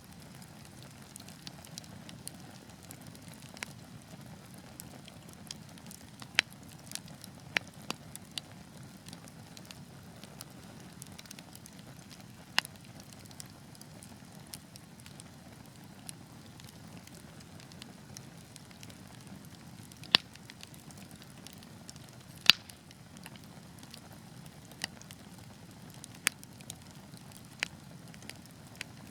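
Wood fire burning with a low steady rustle of flames and sharp irregular crackles and pops from the logs, the loudest pops about twenty seconds and twenty-two seconds in.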